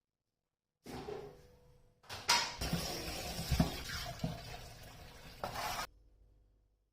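Kitchen work sounds: utensils knocking and clinking against dishes or cookware over a steady hiss. They come in two short clips that start and stop abruptly at edits, after about a second of silence, and the second clip is longer and louder.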